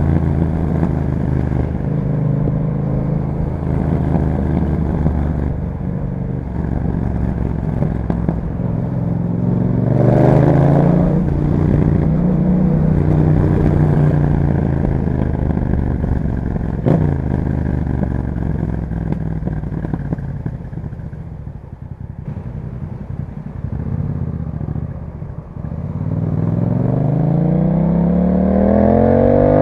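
Yamaha MT-07's parallel-twin engine through an Akrapovic exhaust while riding: the revs climb and fall as the bike accelerates and eases off, with a sharp click about two-thirds through. Near the end the revs rise steeply under hard acceleration.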